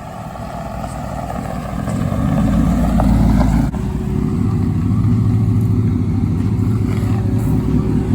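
A vehicle's engine running, growing louder over the first few seconds, then a steady low hum.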